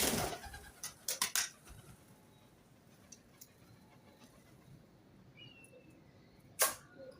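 Birds moving about: a short rush of noise at the start, a quick run of sharp clicks about a second in, a faint short chirp, and one sharp click near the end.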